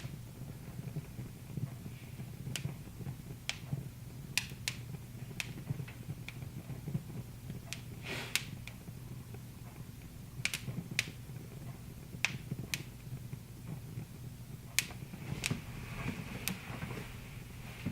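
Wood fire crackling in a fireplace: sharp, irregular pops and snaps over a low steady hum.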